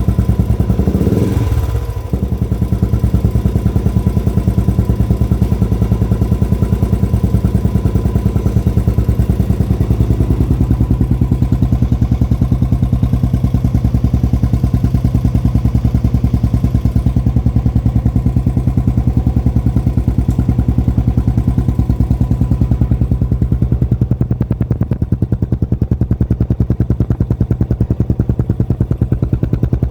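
Royal Enfield single-cylinder engine running through a peashooter exhaust, with a steady, even thump.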